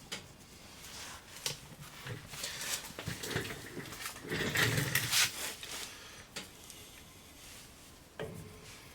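Irregular rubbing and scraping with a few light clicks and knocks, from hands working on a truck's front wheel hub and its parts, loudest in the middle.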